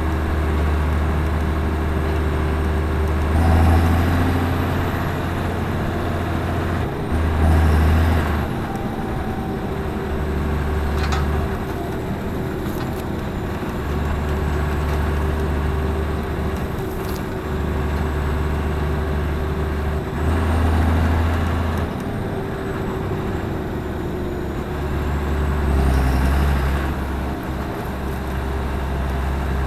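Claas Axion 820 tractor's six-cylinder diesel engine running steadily, swelling louder four times as it is revved, each swell with a high whine gliding up and then down.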